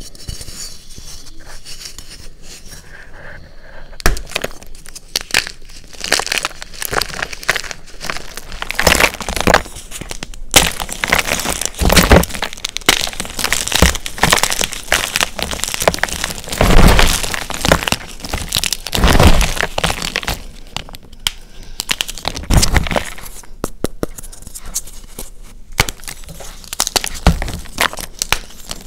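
Dyed SPRI gym chalk block being crushed: dense crunching and crackling, quieter for the first few seconds, then a steady run of crunches with several louder ones.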